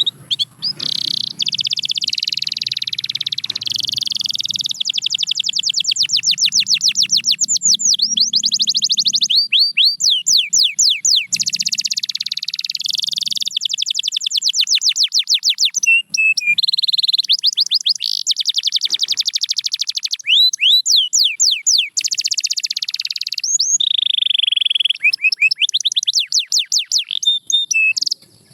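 Domestic canary singing a long, almost unbroken song of fast trills and rolling runs of rapidly repeated notes, with rising and falling swept notes between phrases. It stops just before the end. A faint low rumble lies under the first third.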